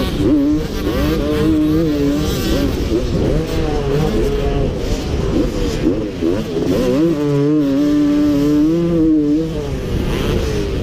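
1989 Yamaha YZ250 two-stroke motocross engine revving up and down as it is ridden hard over a rough track, holding one steady note for a couple of seconds past the middle, over a rush of wind.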